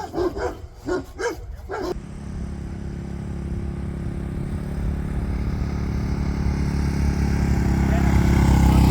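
A motor vehicle's engine running steadily and growing louder over several seconds, as it comes closer. It is preceded in the first two seconds by a string of short, high, repeated yelps.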